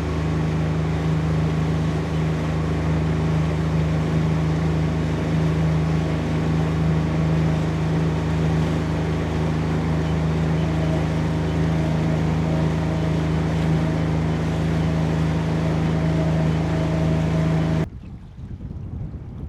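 Boat's outboard motor running at a steady speed, a constant engine drone, until it cuts off suddenly near the end.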